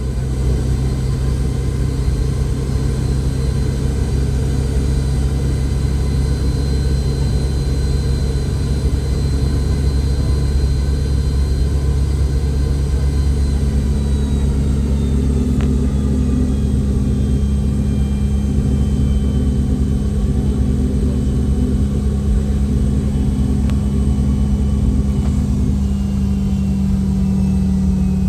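Boeing 717-200's Rolls-Royce BR715 jet engines heard from inside the cabin: a steady low rumble with a high whine. About halfway through, the whine starts slowly falling in pitch and a steady lower hum comes in.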